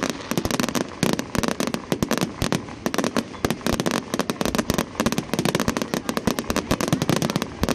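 Fireworks display in full barrage: a dense, continuous run of sharp cracks and bangs, many a second.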